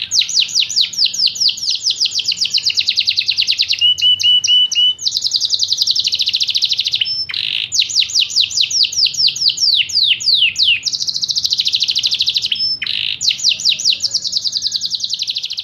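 Yorkshire canary singing a long, loud song of fast trills, each a quick run of repeated downward-sweeping notes, with a short lower rattle about four seconds in and brief pauses about seven and thirteen seconds in.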